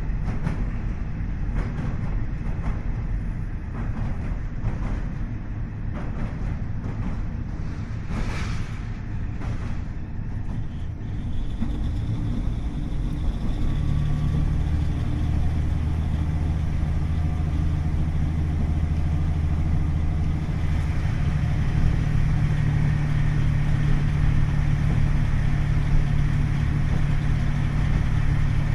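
KiHa 40 series diesel railcar running, heard on board: wheels clicking over rail joints at a steady rhythm over a low rumble, then about halfway through its DMF15HSA diesel engine comes under power with a steady drone that holds for the rest.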